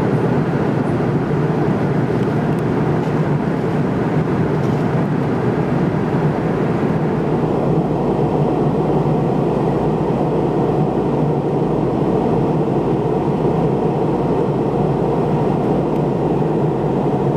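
Steady cabin noise inside an MD-83 airliner, a drone of engine and rushing air with no breaks, whose higher part eases off about seven seconds in.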